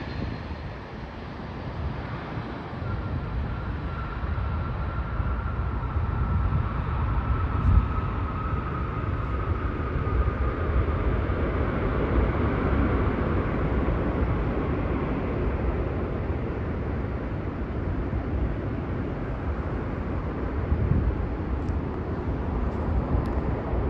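Jet engine noise from a UPS Boeing 767 after landing: a steady rumble, with a faint whine that slowly falls in pitch over the first ten seconds or so.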